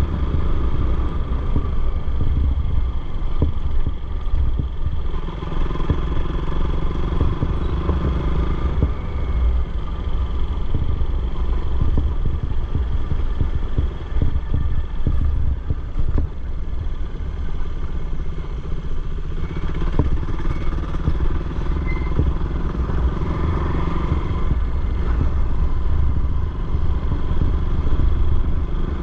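Motorcycle engine running steadily while riding, with a heavy, continuous low rumble.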